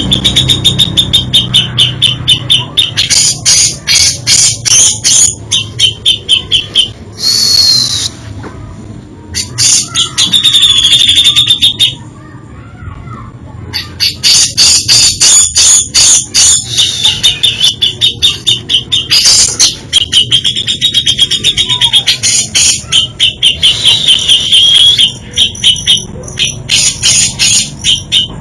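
Cucak jenggot (brown-cheeked bulbul) singing loudly: fast runs of rapid chattering notes and varied whistled phrases, with a couple of brief pauses.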